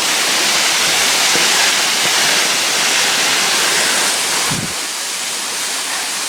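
Waterfall rushing, a loud, even hiss of falling water. A brief low thump comes about four and a half seconds in, after which the water sounds slightly quieter.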